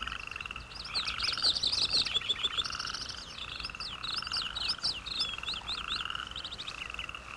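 A chorus of frogs calling in short pulsed trills that repeat a little more than once a second, with many quick, high bird chirps over them.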